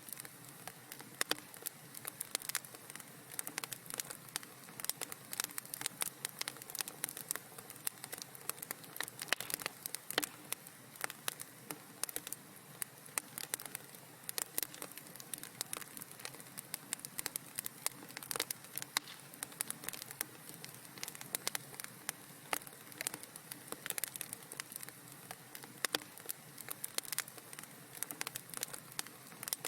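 Wood fire crackling in a fireplace: many small, irregular pops and snaps over a faint steady hiss.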